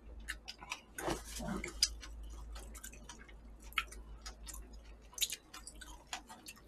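Close-miked mouth sounds of eating braised pig's trotters (jokbal): chewing with irregular short clicks and smacks.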